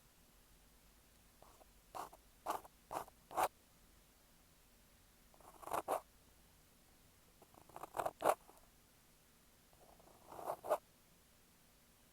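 Ear pick scraping an earphone microphone for ASMR ear-cleaning sounds, in short, scratchy strokes that come in small groups: about four quick strokes two to three and a half seconds in, then single strokes or pairs near six, eight and ten and a half seconds.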